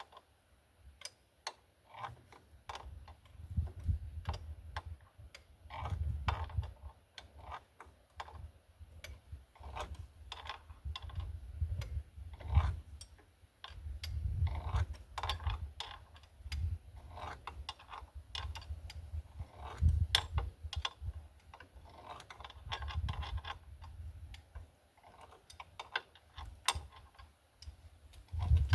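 Hand tools working on a car's front shock absorber mounting: irregular metallic clicks and taps, with dull low knocks in between.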